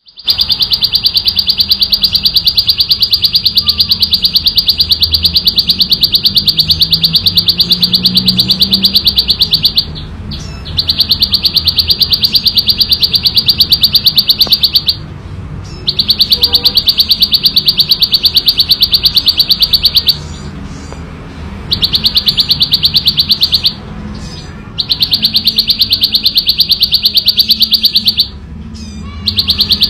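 Ciblek sawah, a prinia, singing a loud, clear, rapid buzzing trill of fast repeated high notes. The song comes in long runs of several seconds, broken by about five short pauses.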